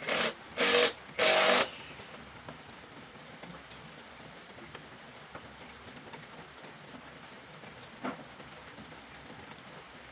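Three short, loud hissing blasts in quick succession, the last one longest, then a faint steady hiss with a single small click near the end.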